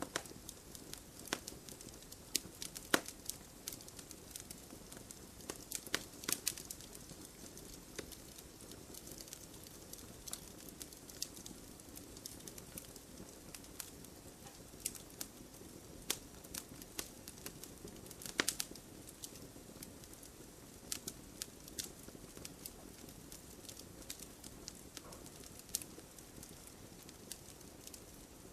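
Wood fire crackling in a fireplace: irregular sharp pops and snaps over a low, steady rush of burning logs, with louder pops about 3 seconds in, around 6 seconds and near 18 seconds.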